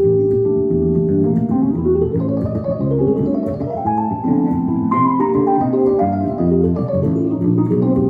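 Instrumental music with no singing: organ-like keyboard chords held under a melody line. One high note is held for about a second at the start, then the line climbs, and a new chord comes in about five seconds in.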